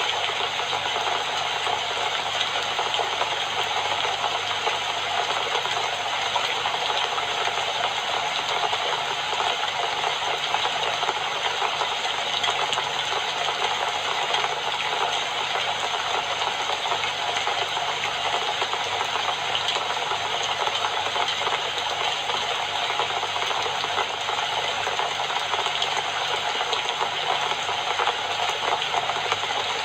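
Steady rain falling, an even hiss of countless drops that does not let up or change.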